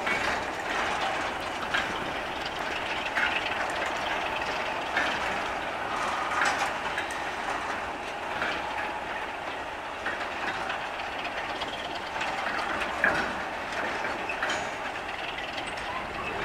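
Running noise of a railway passenger coach heard from on board: the wheels rumble on the track and click irregularly over rail joints as the train slows to a crawl.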